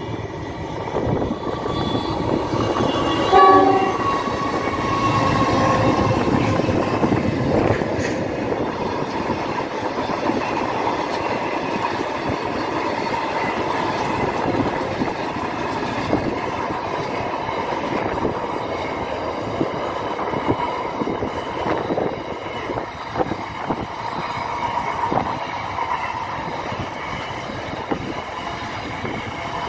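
Freight train of boxcars and double-stacked container wagons passing close by. A short horn blast sounds about three seconds in. After it comes a steady rumble and clatter of wheels on the rails.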